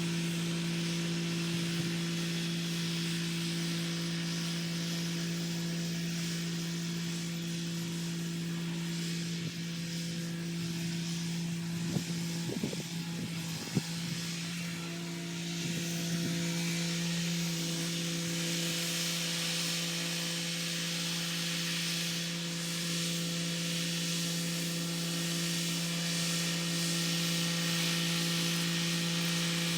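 Kubota SL35 tractor's diesel engine running at a steady speed while working a rotary tiller. About midway there are two short sharp knocks.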